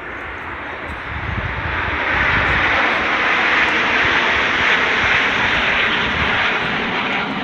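Airplane flying past at an airshow: a loud engine rush that builds over the first couple of seconds, stays loudest through the middle and eases slightly near the end.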